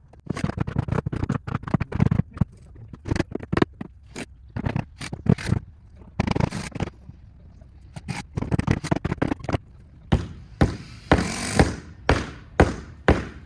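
Repair work on a wooden fence: a string of irregular knocks, taps and scrapes from tools and boards, with a longer scraping sound about eleven seconds in.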